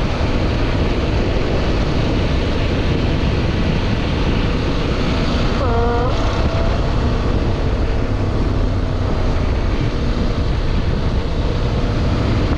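CFMoto Ibex 800 motorcycle's parallel-twin engine running at riding speed, mixed with wind rushing over the microphone. A short pitched sound that bends in pitch breaks through about halfway.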